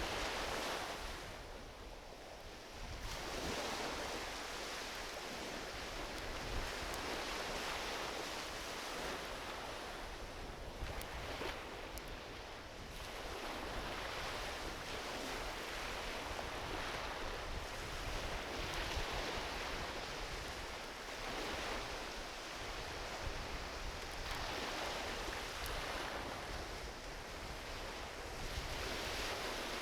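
Small ocean waves washing onto a beach, swelling and ebbing every few seconds, with wind on the microphone and a few faint crackles from a driftwood campfire.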